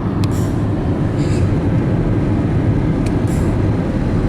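Steady low road and engine rumble of a moving car, heard from inside the cabin, with a couple of faint clicks.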